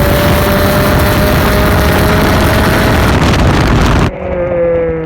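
Honda D16A four-cylinder engine through an HKS Hi-Power exhaust, pulling hard with its pitch slowly rising. About four seconds in the sound drops and the pitch falls as the revs come down.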